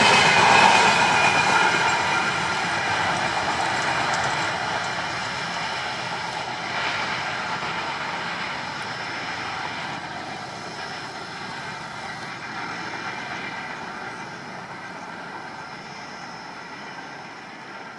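Double-decker passenger train's wheels running on the rails as the train moves away, the rolling noise fading steadily until it is faint near the end.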